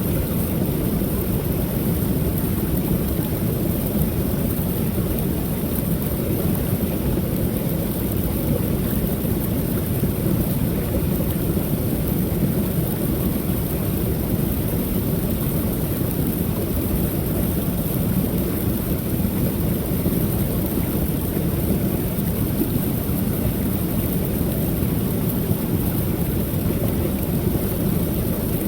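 Creek waterfall: water pouring over the falls in a steady, low rushing rumble.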